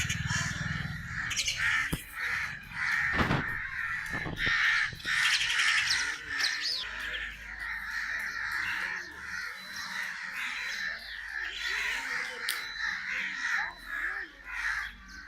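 Crows cawing over and over, calls coming thick and overlapping one another, with a few sharp knocks between about two and four seconds in.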